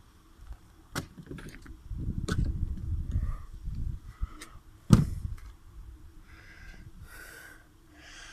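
Travel trailer door and fittings being handled: a sharp click, a stretch of low rumbling and knocking, then one loud knock about five seconds in, over a faint steady hum.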